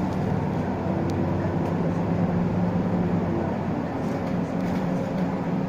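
Isuzu Erga LV290 city bus under way, heard from inside the cabin: its four-cylinder diesel engine and drivetrain hum steadily over road noise.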